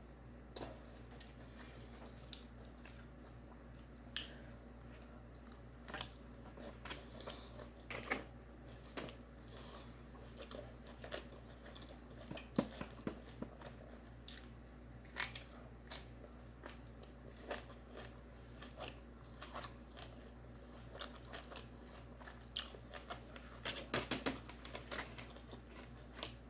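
A person chewing and biting food close to the microphone: irregular wet mouth clicks and soft crunches, a few every second, over a low steady hum.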